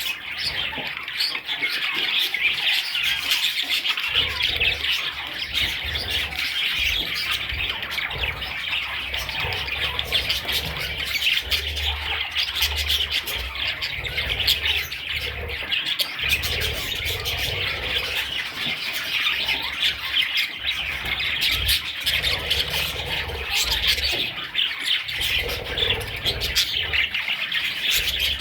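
A flock of budgerigars chattering and chirping continuously, many short squawks and warbles overlapping, with an intermittent low rumble underneath.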